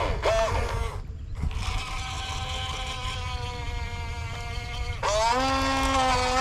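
Electric motor whine from an RC excavator, changing pitch as the machine is worked. The pitch falls and dips at the start and breaks off briefly. It then runs steady and quieter, and about five seconds in rises sharply to a louder, higher whine, with a low rumble underneath.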